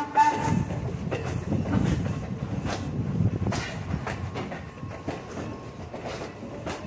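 Steam locomotive whistle cutting off just as the sound begins, then a passenger car rolling along the track, its wheels clicking and clanking over rail joints above a low rumble. The rumble grows quieter over the last few seconds.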